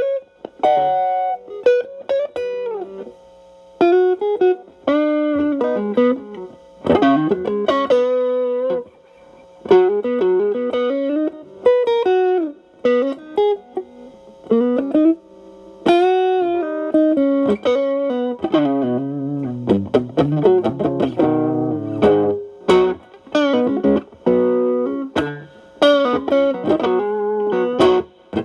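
Electric guitar, a Stratocaster through an Xotic AC Plus overdrive pedal into a Marshall Valvestate amp, playing improvised single-note blues lead phrases with string bends and vibrato and short pauses between phrases. The tone is the pedal's overdrive cleaned up.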